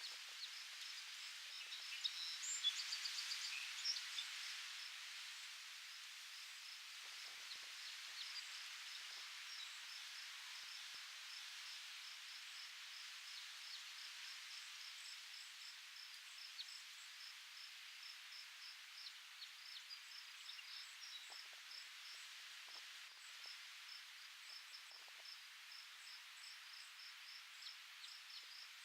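Soft, steady rustle of wind in foliage, with an insect, most likely a cricket, chirping in a regular rhythm throughout. A bird gives a short burst of trilled calls about two to four seconds in.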